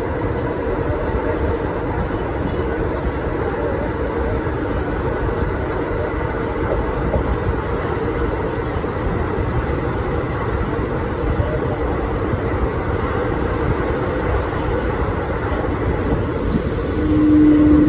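Steady rumble of a passenger train running along the rails. Near the end a horn sounds once, a steady tone held for about two seconds.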